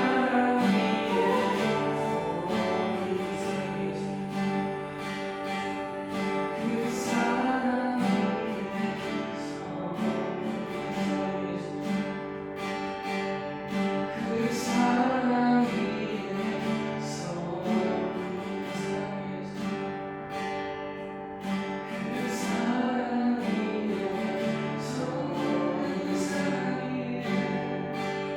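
Worship music: voices singing a slow song over a strummed acoustic guitar.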